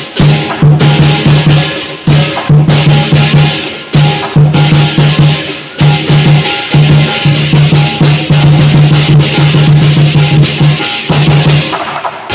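Lion dance percussion: a large drum beating in fast runs under clashing cymbals, with short breaks in the rhythm about every two seconds.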